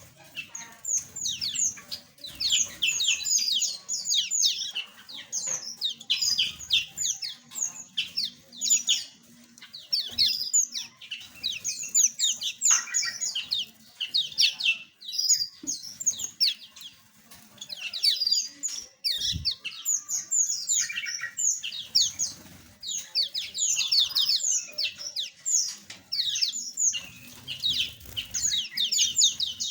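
A flock of small aviary birds chirping without pause, many quick high notes overlapping one another.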